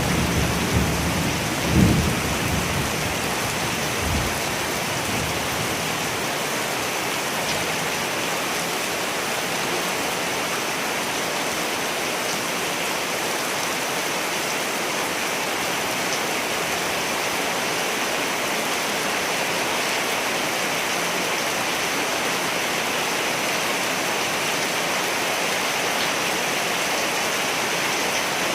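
Steady heavy rain, with rolls of thunder in the first few seconds, the sharpest just under two seconds in, then a constant hiss of rain.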